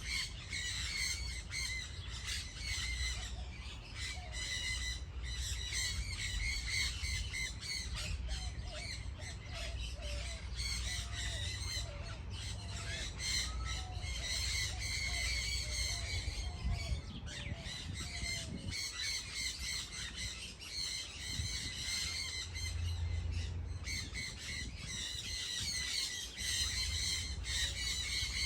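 A flock of birds calling together, many short high calls overlapping in a dense chatter, with a run of lower, softer notes through the middle. A low rumble runs underneath.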